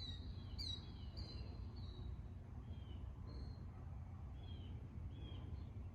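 1981 variable-speed ceiling fan running on its low speed, with a faint steady low hum. Over it come faint short high chirps, several falling in pitch, at first about every half second, then more sparsely.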